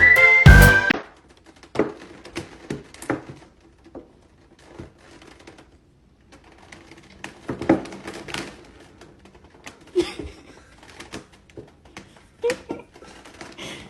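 Music with a whistled tune cuts off about a second in, followed by scattered light taps, clicks and knocks at irregular intervals.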